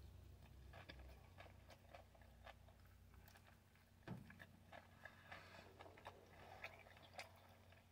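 Near silence with faint mouth sounds of a person biting into and chewing a soft tortilla chicken wrap: scattered small clicks and smacks, one a little louder about four seconds in.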